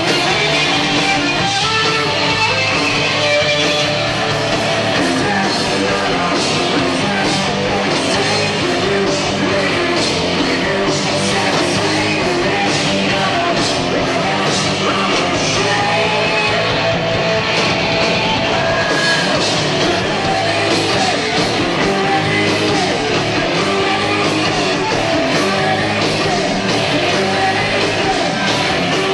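Live rock band playing loudly: distorted electric guitar, bass and drums with sung vocals, heard as an audience cassette recording from the crowd.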